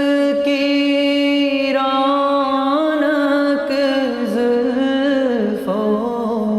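Song with a single voice holding long, slowly sliding notes, with no words in this stretch.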